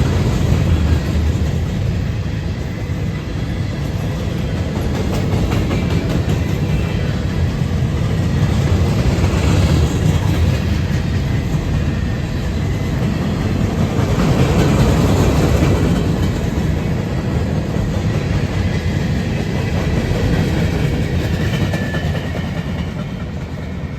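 Long freight train of empty steel gondola cars rolling past, with a steady low rumble and the clatter of wheels over the rails. It swells louder twice in the middle and eases off a little near the end.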